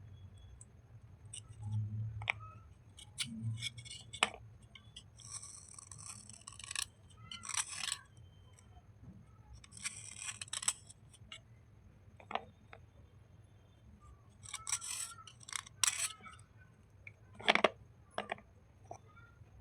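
Wet slate and chalk bars being scraped and rubbed in short, crisp strokes, with a few longer rasping passes and scattered clicks. A sharper click near the end is the loudest.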